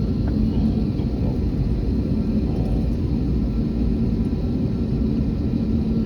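Airbus A321neo jet engines giving a steady, unbroken rumble with a faint steady hum.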